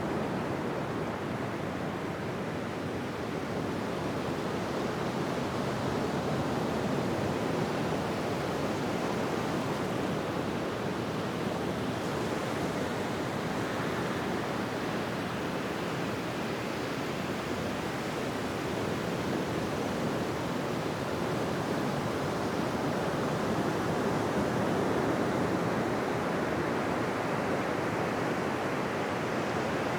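Ocean surf washing continuously onto a beach: a steady rushing of waves with slow, gentle swells in loudness and no distinct single crashes.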